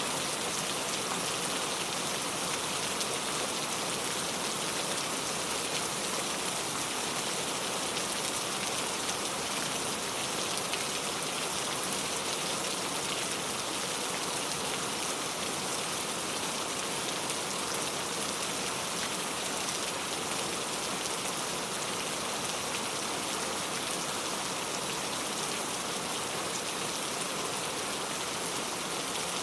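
Steady rainfall, an even hiss of many drops falling without a break.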